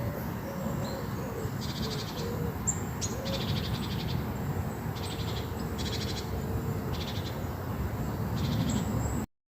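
Animal calls over a steady low background noise: a series of short, high buzzy trills repeating every second or so, with faint wavering lower calls. The sound cuts off abruptly near the end.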